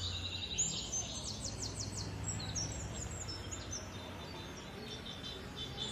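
Birds chirping in quick, high repeated notes, in clusters about a second in and again around three seconds, over a steady low hum.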